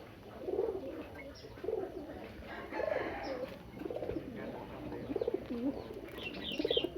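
Domestic pigeons cooing, several birds calling over one another in repeated wavering coos, with a brief higher chirping near the end.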